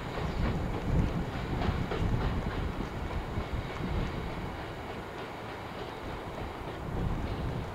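Covered bogie hopper wagons of a coal train rolling away, a low rumble with a few wheel clacks over the rail joints in the first half.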